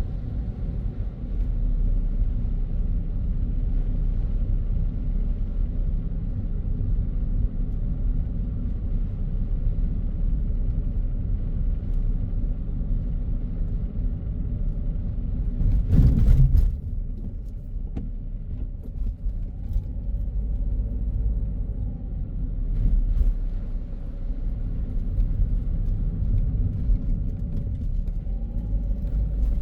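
Car driving: a steady low rumble of engine and tyre noise. About halfway through there is one brief, louder burst of noise.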